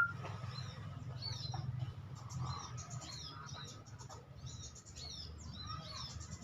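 Small birds chirping: a scatter of short, high, down-slurred chirps throughout, over a low steady rumble.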